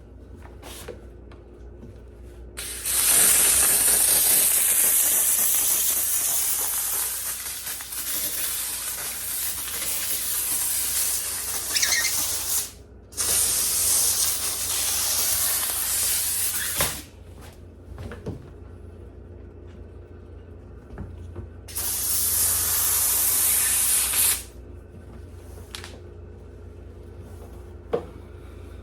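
McCulloch steam cleaner blasting steam in three long hissing bursts, the first running about ten seconds, with short pauses and a few light knocks in between.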